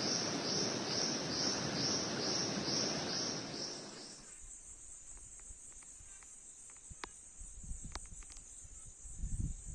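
Insects chirping in a rhythmic pulse about three times a second over a loud rushing noise. About four seconds in, this cuts off and leaves a steady high-pitched insect buzz with faint clicks and a few low thumps near the end.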